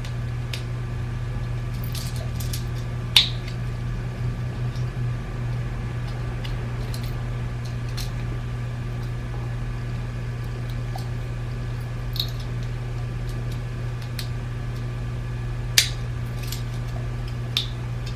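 A steady low electrical hum with a few sharp clicks and a soft rubbing patch, as small plastic parts of a BMW iDrive controller are handled and taken apart. The loudest clicks come about 3 s and 16 s in.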